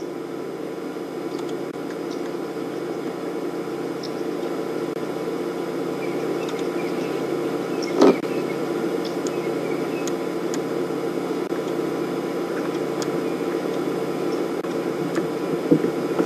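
Safari vehicle's engine idling steadily: a constant low hum, with a short knock about eight seconds in and faint brief high chirps.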